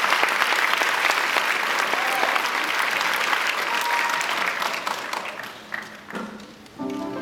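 Audience applauding, the clapping thinning out and dying away about six seconds in. Music begins with sustained notes just before the end.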